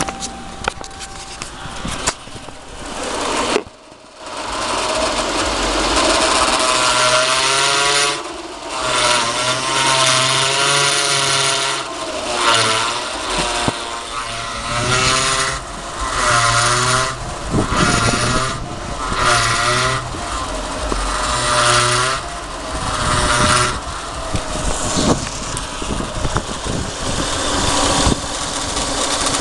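Lexus SC power steering pump whining and groaning over the running engine, in repeated bursts of a second or two that waver up and down in pitch: the pump is failing.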